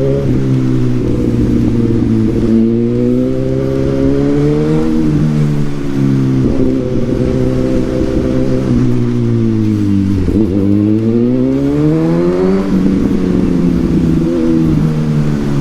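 Suzuki GSX-S1000 inline-four motorcycle engine through a Yoshimura exhaust, ridden on the road. The pitch climbs and drops sharply at upshifts, sinks slowly as the rider eases off, then rises again under throttle about ten seconds in before falling away near the end.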